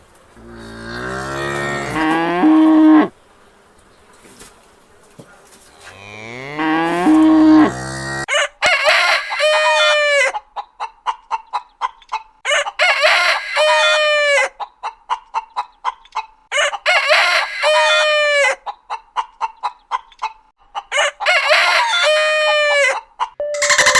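A cow mooing twice, two long low calls, then a rooster crowing four times, about every four seconds, with rapid clucking between the crows.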